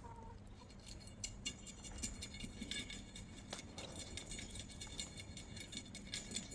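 Trowel scraping and tapping as wet white cement is spread and worked around the gaps of a chicken coop: a faint, busy run of small clicks and scrapes.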